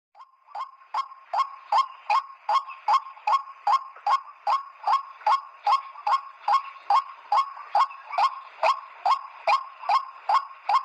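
Repeated 'ruak-ruak' call of the white-breasted waterhen: short falling notes in a steady, even rhythm, nearly three a second.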